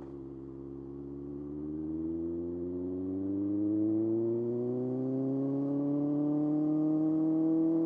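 Kawasaki ZX-6R's inline-four engine pulling under throttle, its pitch and loudness rising smoothly for about five seconds, then holding steady.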